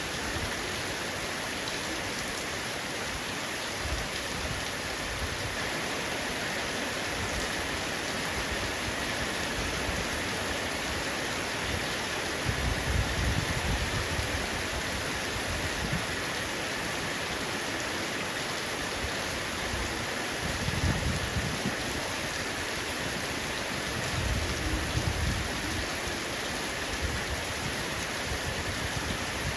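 Heavy rain falling steadily on a roof, an even hiss of drops, with three short low rumbles about twelve, twenty and twenty-four seconds in.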